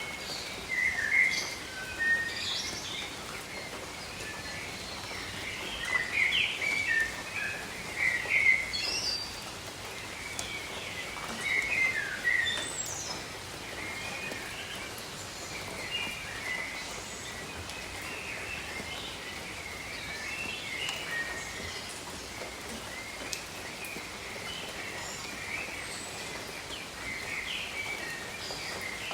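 Many birds chirping and calling, with bursts of calls in the first half, over the steady hiss of tropical rain.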